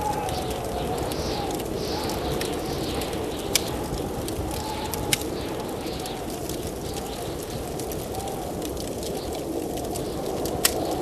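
Blizzard wind howling in gusts, its whistle rising and falling over a steady rush, with three sharp crackles from a wood fire.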